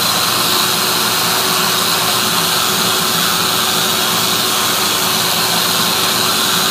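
Electric sander running steadily, smoothing the rough, splintered back of drilled Baltic birch plywood.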